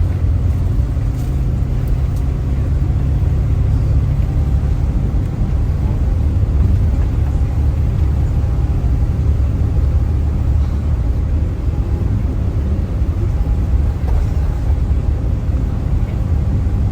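Steady low rumble of a moving road vehicle heard from inside, engine and tyre noise running on with no breaks.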